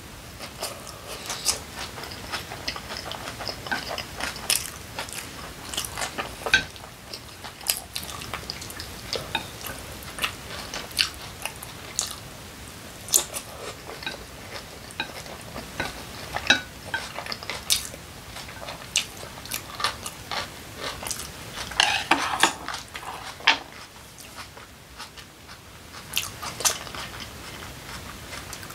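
Chewing and biting on bits of kimchi pancake, with wooden chopsticks clicking and scraping on a ceramic plate in short, irregular ticks.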